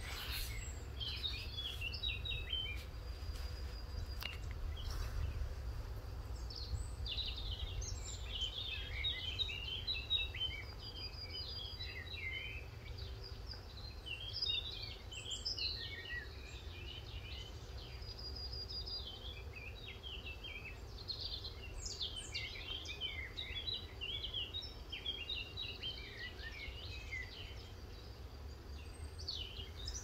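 Several songbirds chirping and twittering in quick, overlapping high calls, over a steady low rumble.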